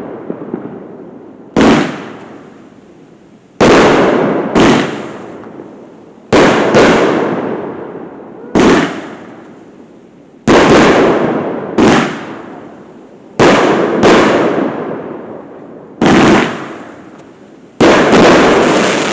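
Fireworks going off one after another: about a dozen loud bangs, some in quick pairs, each trailing off over a second or so.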